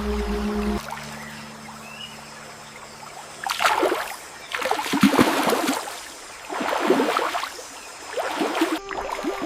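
Water splashing in four strokes about a second and a half apart, each a short wash, after a steady hum stops about a second in.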